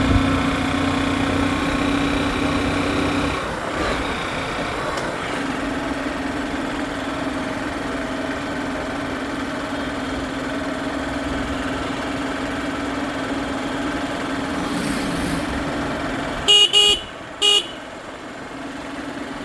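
A motor vehicle's engine runs steadily, then a horn gives three short honks near the end.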